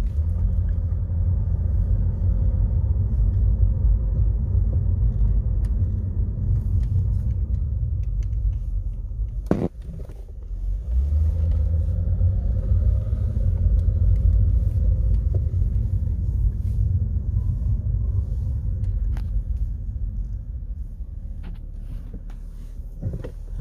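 Cold 2011 Lexus GS 350's 3.5-litre V6 running at low revs, a steady low engine and drivetrain rumble heard inside the cabin. A single knock about ten seconds in is followed by a brief dip in the rumble.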